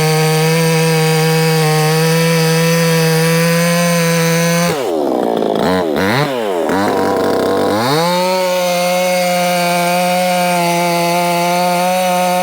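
Proyama 68cc two-stroke chainsaw running at high revs while cutting an oak log. About five seconds in, the engine speed drops and swings up and down a few times for roughly three seconds, then it settles back to a steady full-throttle run.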